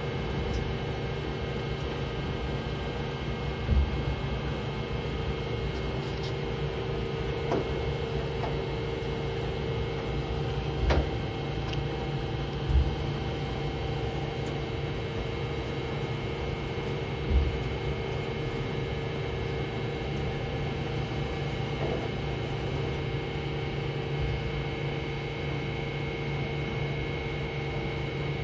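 Mazak Slant Turn 450 CNC lathe running under power with a steady hum, broken by a handful of short, dull thumps.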